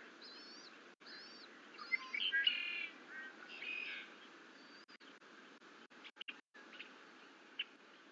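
Birds calling outdoors: a run of four short, high, arching chirps, then two louder, rougher calls about two and a half and three and a half seconds in, over a steady background hiss.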